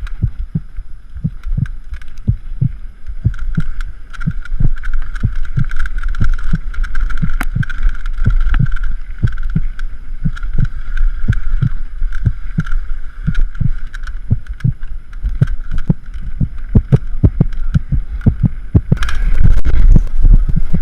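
Mountain bike running down a rough downhill trail: a fast, irregular series of knocks and rattles as it hits bumps, over a constant low wind rumble on the microphone and a steady high buzz. The noise swells about nineteen seconds in.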